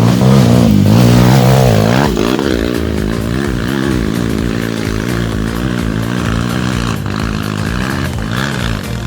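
Dirt bike engine running hard, held at steady high revs for about two seconds, then revving up and down repeatedly as the throttle is worked.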